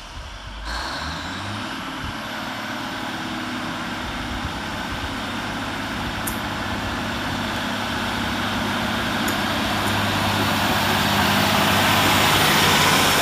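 Class 153 diesel multiple unit pulling out, its underfloor diesel engine revving up as it accelerates away. The engine and rail noise grow steadily louder, peaking near the end.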